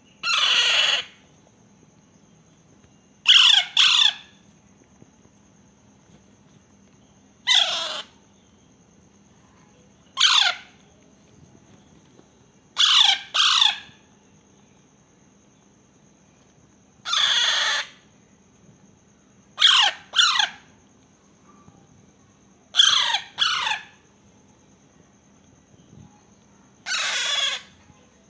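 Baby parakeet calling: short, loud, harsh calls, each falling in pitch, given about every three seconds, several of them as quick doubles.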